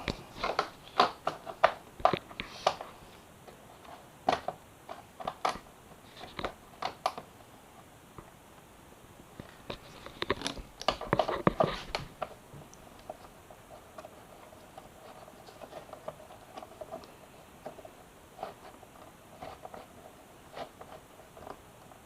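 Clicks and knocks of plastic fairing panels and their fasteners being handled and fitted to a motorcycle, in quick runs at the start and again about ten seconds in, quieter toward the end.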